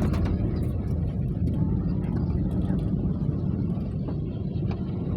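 Steady low rumble with a constant hum under it, like a vehicle's running engine and road noise.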